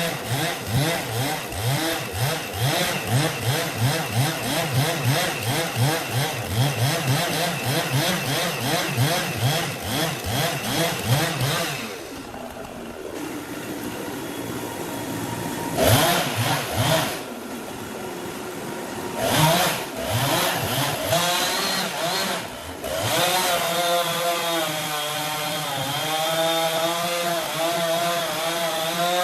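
Chainsaw running, its engine pitch rising and falling rapidly for about the first twelve seconds. It then drops to a lower level with a few short loud bursts, and runs steadier again near the end.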